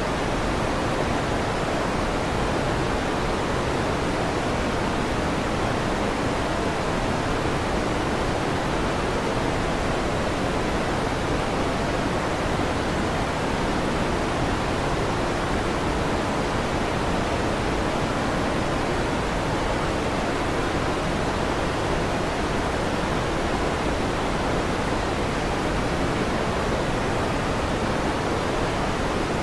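Electric fan running, a steady even whoosh that does not change.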